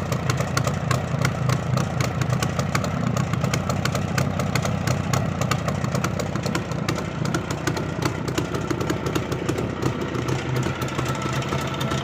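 Jawa 638's 343 cc two-stroke twin-cylinder engine idling steadily, with a rapid, even ticking over its low note.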